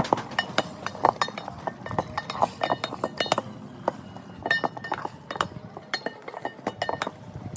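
Dishes and cutlery clinking: a rapid, irregular run of sharp knocks and short ringing clinks, as of spoons and plates being handled.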